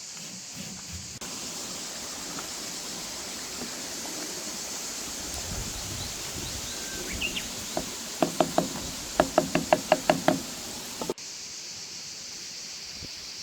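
A quick run of about a dozen sharp knocks, roughly four a second, each with a brief ring, over a steady hiss; it stops abruptly near the end.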